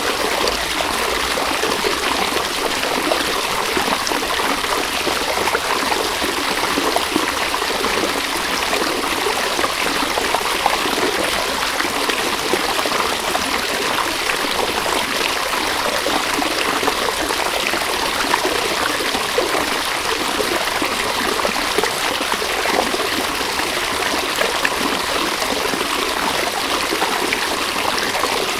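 River water running steadily over stones, an even rushing and trickling with no breaks.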